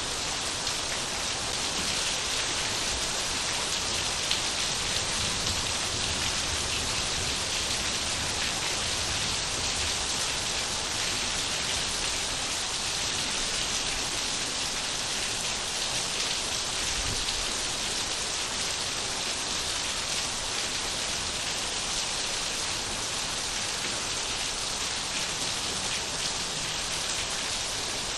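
Steady rain falling and pattering on surfaces, an even hiss of many drops with no lulls or gusts.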